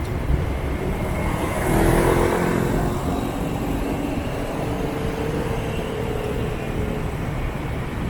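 Motorbike and car traffic heard from a moving scooter: steady engine rumble and road noise, with a louder engine passing close about two seconds in.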